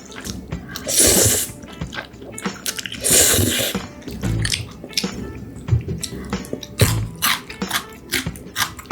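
Slurping and chewing of spicy stir-fried instant noodles: two long slurps, about a second in and about three seconds in, among wet smacking and chewing clicks.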